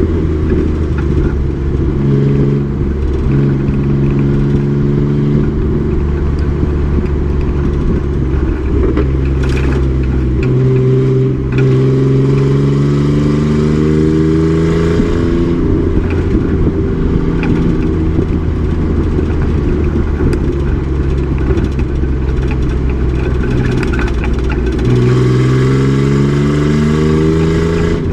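Race truck's engine running hard at track speed. It holds steady for long stretches, then climbs in pitch as it accelerates, about ten seconds in and again near the end.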